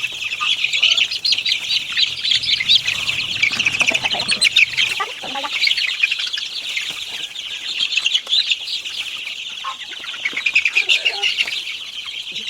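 Chickens: a dense, continuous high peeping of many chicks, with some clucking mixed in.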